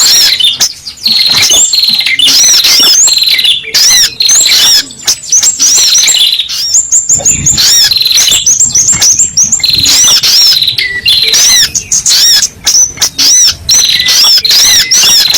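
Spiderhunter (sogok ontong) calls played loud as a bird-trapping lure recording: a rapid, near-continuous series of sharp arching chirps, with short breaks.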